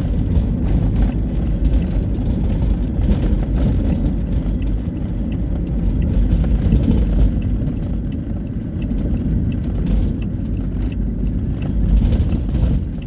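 Highway traffic with heavy trucks: a steady low rumble of engines and tyres.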